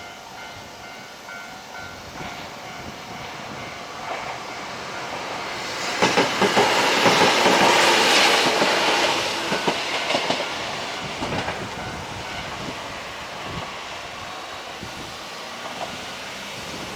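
A train passing over a level crossing, its wheels clacking over the rail joints. The sound builds, is loudest from about six to ten seconds in, then fades. The crossing's warning bell sounds with steady tones in the first few seconds.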